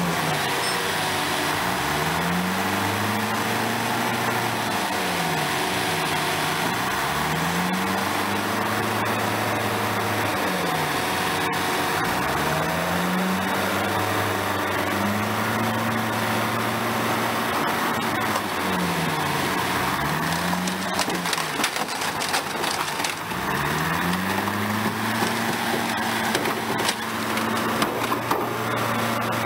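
Heavy diesel engine of a car crusher revving up and falling back over and over as its hydraulics work. From about two-thirds of the way in come irregular cracking and crunching as the car body gives way.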